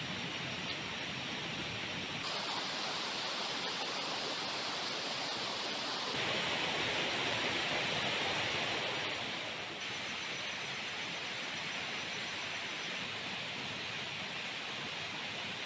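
Heavy rain falling steadily, a dense hiss that changes abruptly in level and tone a few times.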